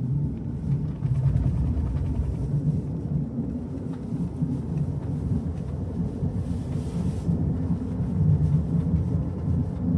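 Mazda MX-5 Miata (ND) on the move: a steady low road and drivetrain rumble, with the creaking, popping noise from the front underside. The noise comes from the frame stiffening plate under the engine, whose bolts had not been torqued to spec after an oil change.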